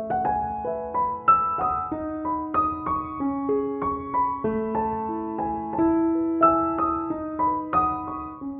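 Background music: a gentle piano melody of single struck notes over held lower notes, about two or three notes a second.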